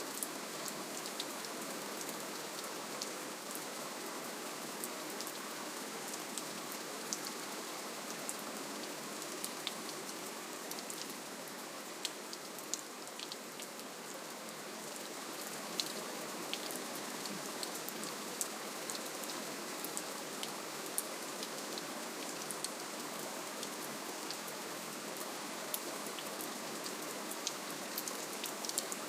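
Steady gentle rainfall, a soft even hiss with many separate drops ticking sharply on a surface.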